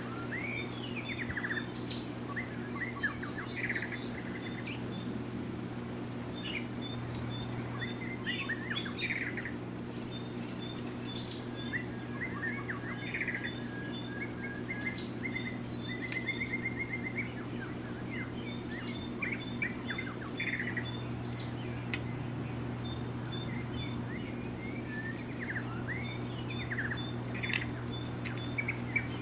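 Several birds chirping and trilling on and off throughout, over a steady low hum.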